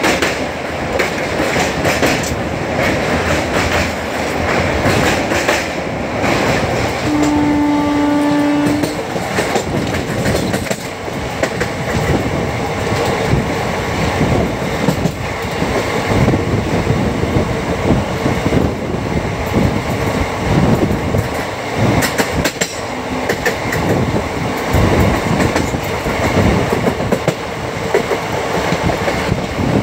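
Indian Railways express passenger train running, heard from on board, with a steady rumble and wheels clattering over the rail joints. About seven seconds in, a train horn sounds once as a single held note for about two seconds.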